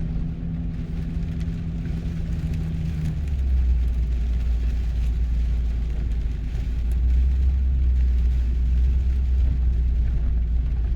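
Car driving, heard from inside the cabin: a steady drone of engine and road noise. About three seconds in, the hum drops to a deeper pitch and grows louder.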